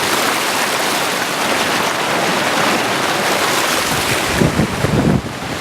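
Tews Falls waterfall pouring into its plunge pool, a loud steady rush. From about four seconds in, wind buffets the microphone with a low rumble.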